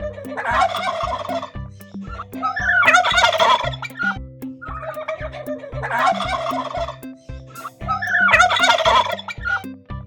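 Domestic turkey gobbling, four rattling gobbles about every three seconds, over background music with a steady beat.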